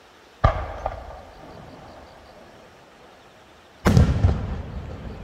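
Two aerial firework shell bursts. First a sharp bang with a smaller crack just after it, then about three seconds later a louder double boom that trails off into a rolling rumble.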